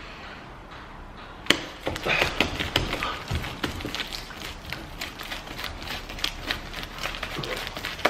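Lumpy, not-yet-set homemade slime being kneaded by hand against a tabletop. A sharp tap comes about one and a half seconds in, then a dense run of small sticky clicks and crackles.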